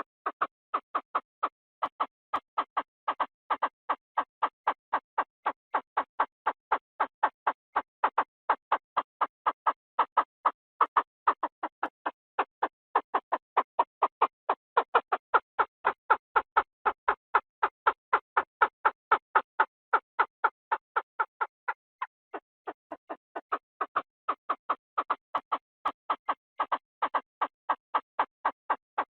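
Call of the nok krata thung, a Thai field partridge, as a decoy-calling recording: a long, unbroken series of short, evenly spaced notes, about three to four a second, with a brief falter about two-thirds of the way through.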